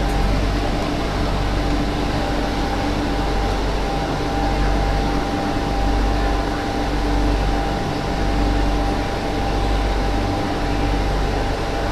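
Inside the cabin of an MTR Tsuen Wan line Q-train: a steady mechanical hum and hiss with a low rumble that swells and fades, and two steady tones running under it.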